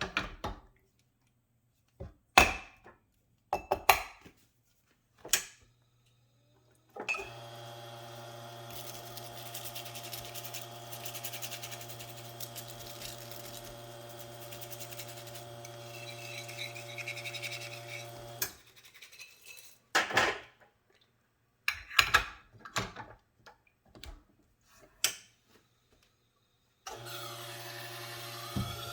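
An espresso machine's pump runs with a steady hum for about eleven seconds, then stops; sharp clicks and knocks of metal parts being handled come before it and after it, and the pump hum starts again near the end.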